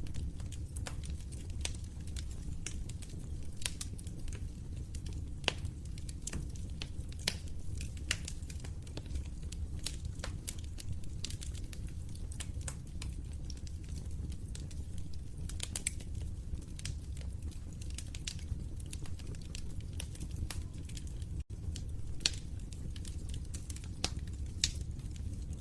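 Fireplace fire crackling: frequent sharp pops and snaps over a steady low rumble of the flames. The sound cuts out for an instant about 21 seconds in.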